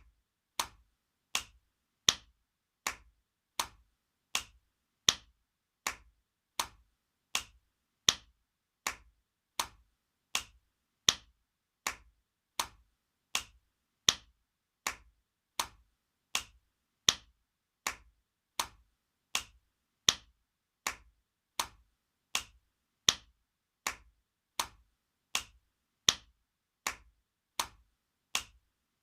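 Spanking sound effect: sharp slaps repeated about every three-quarters of a second in an even loop, every fourth slap louder.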